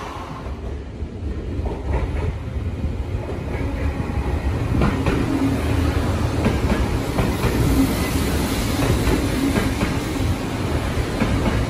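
Tokyo Metro Tozai Line electric commuter train running alongside the platform: a steady rumble with wheels clicking over the rail joints, and a faint motor hum that grows stronger about halfway through.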